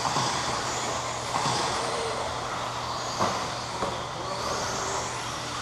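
A pack of electric RC stadium trucks racing on a dirt track: high motor whines rising and falling as they accelerate and brake, over steady tyre and track noise, with a short knock about three seconds in.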